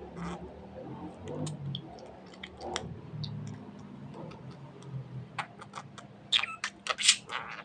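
Scattered small, sharp clicks and taps from a budgerigar close to the microphone. Near the end come several louder, short, high chirps.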